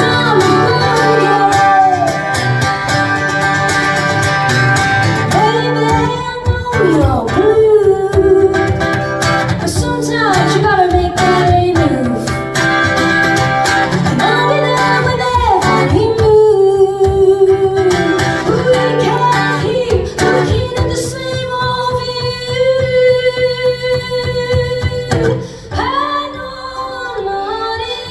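Live female singer-songwriter performance: a woman singing with strummed guitar, holding long notes in places. Near the end the guitar drops away and her voice carries on almost alone.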